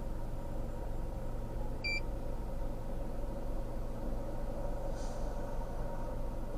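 Steady low rumble of an idling vehicle engine, with one short electronic beep about two seconds in.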